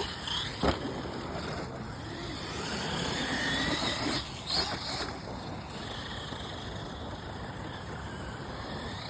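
Radio-controlled monster truck running, its motor whine rising and falling over the noise of the tyres, with a sharp knock just under a second in and another thump about four and a half seconds in.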